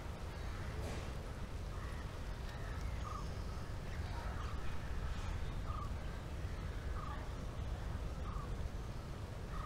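A bird calling in short, similar notes about once a second, over a steady low outdoor rumble.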